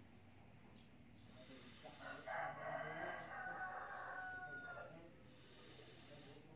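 A single long bird call, a pitched crowing sound lasting about three seconds that starts about two seconds in.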